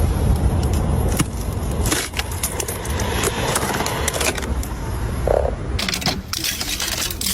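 Ice crunching, scraping and cracking in irregular sharp clicks, over a steady low rumble.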